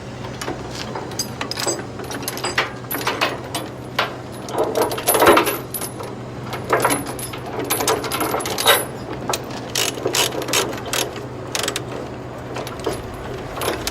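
Ratchet chain binder clicking and steel tie-down chains clinking as they are tightened, over a steady low hum.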